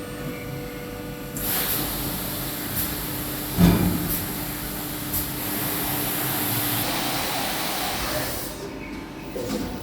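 A steady hiss lasting about five seconds, with a sharp knock about a third of the way in and a low steady hum under its second half.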